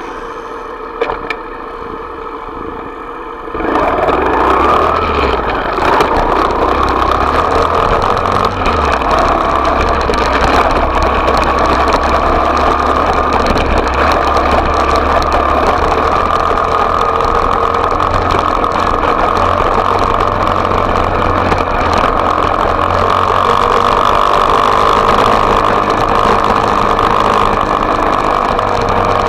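Small off-road motorbike engine running. It gets much louder about four seconds in, then holds a steady note.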